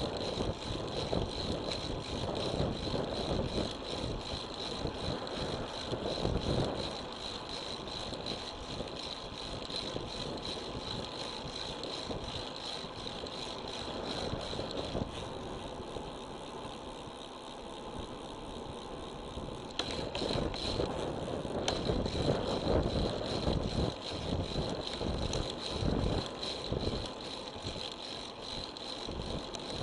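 Road bike riding, heard through an action camera: wind buffeting and tyre noise on the road, with some rattling. The rumble eases for a stretch in the middle and picks up again after a pair of sharp clicks about twenty seconds in. A steady high whine sits over it.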